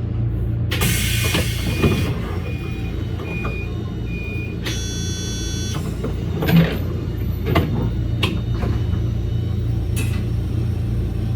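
Toyama Chiho Railway electric train running, with a steady low rumble. About a second in there is a burst of hiss, followed by a few short high beeps. Around halfway through comes a brief electronic tone, then several sharp knocks.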